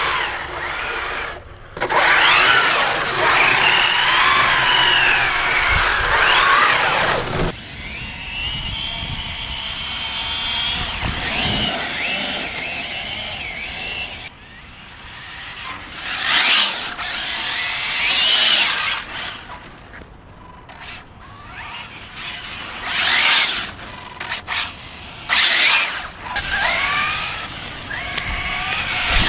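Arrma Felony 6S brushless RC car's electric motor whining up and down in pitch as it accelerates and slows, over the hiss of its tyres on wet pavement, with several loud bursts of acceleration.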